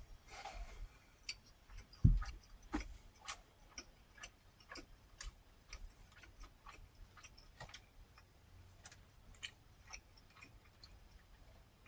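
Person chewing food close to the microphone: soft, irregular wet mouth clicks and smacks, with one dull thump about two seconds in.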